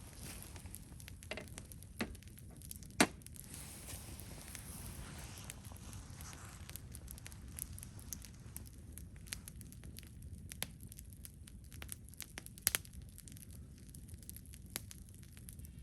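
Wood campfire crackling, with scattered small pops and a few sharp snaps. The loudest snap comes about three seconds in and another near the end, over a low steady rumble.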